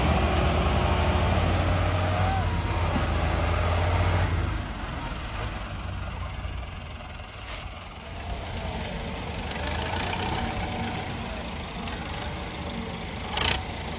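Diesel tractor engines working hard under load, pulling a stuck loaded trailer. The heavy engine sound drops off sharply about four and a half seconds in, and an engine runs on more quietly. There is a short sharp sound near the end.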